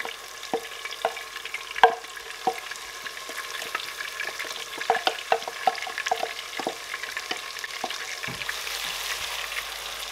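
Blended pepper mix sizzling as it is scraped into hot palm oil in a stainless steel pot, with the wooden spoon tapping and scraping against the glass bowl and pot. The sizzle swells near the end as the mix is stirred in.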